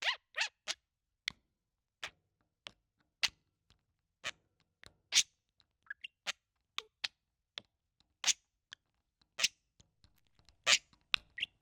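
Budgerigar making short, sharp clicks and brief chirps at irregular intervals, about one a second, with a quick cluster of several near the end.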